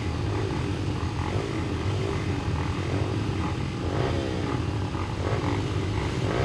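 A pack of small-displacement four-stroke flat-track racing motorcycles (125cc–200cc class) running on a dirt oval. Several engines rise and fall in pitch over and over as the riders throttle off into the turns and back on out of them.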